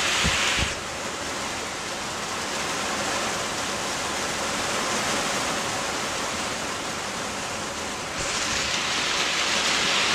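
Heavy rain pouring down, a steady rushing hiss. Two low thumps come right at the start; the rain sound drops quieter just under a second in and grows louder again about eight seconds in.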